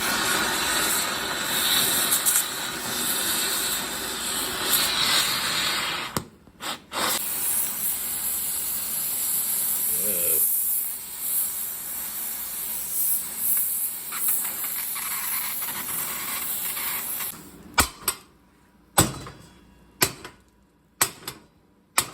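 Gas torch hissing steadily as it heats a seized drive-shaft carrier-bearing inner race to free it, with a short break about six seconds in. The hiss stops shortly before the end and is followed by a handful of sharp knocks.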